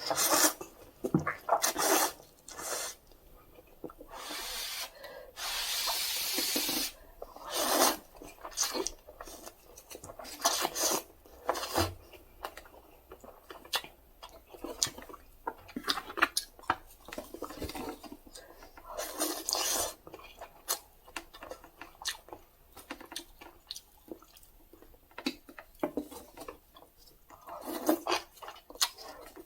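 Close-up eating sounds of instant cup ramen: noodles slurped and chewed, with many short clicks and taps throughout and one longer slurp about six seconds in.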